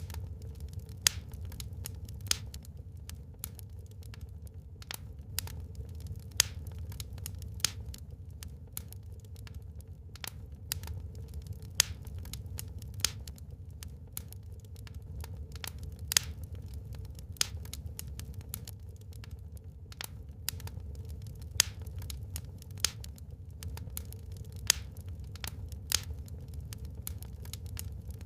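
Wood fire crackling in a fireplace: a dense run of small snaps with a louder sharp pop every second or two, over a low steady rumble.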